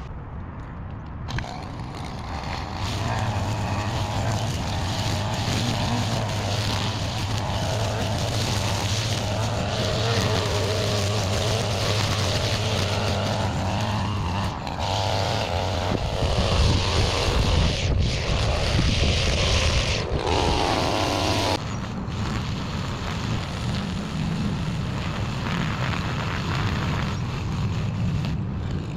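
Gas-powered string trimmer's small engine running steadily, speeding up and easing off several times around the middle.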